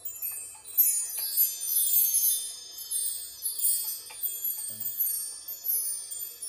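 Metal chimes ringing: cascades of high tinkling tones that slide downward in pitch, the first struck about a second in and ringing on as further sweeps follow.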